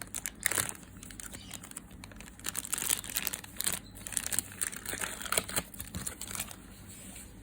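Plastic packaging crinkling and rustling as it is handled and opened, in irregular bursts of crackles.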